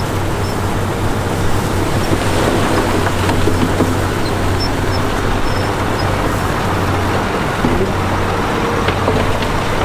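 Heavy diesel earthmoving machinery running steadily under load, with a constant low engine hum and a dense mechanical rumble, and a few faint knocks near the end.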